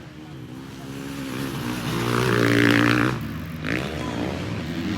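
Motocross bikes racing on a dirt track, one engine growing louder as it passes close about two and a half seconds in, then dropping in pitch and fading.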